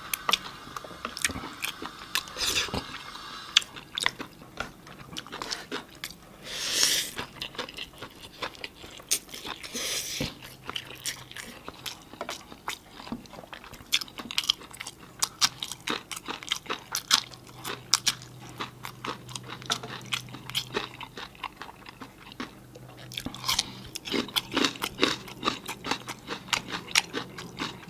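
Close-miked chewing and eating: a steady run of quick mouth clicks, with two short hissing rushes about seven and ten seconds in.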